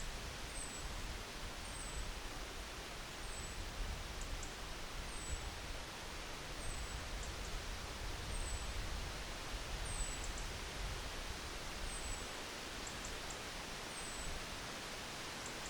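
Wind blowing through trees, a steady rustling hiss with a gusting low rumble. A short high chirp repeats about every one and a half seconds.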